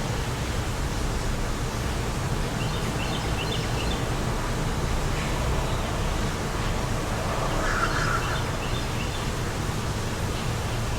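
Wind blowing steadily, with a low rumble, and small birds chirping faintly a few times.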